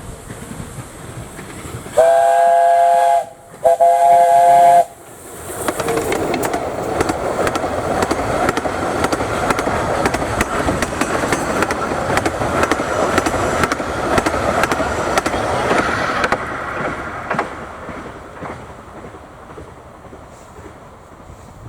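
Steam locomotive's chime whistle sounding two loud blasts, each about a second long. The train then passes close by with a loud clattering rumble of wheels and running gear, which fades away after about twelve seconds.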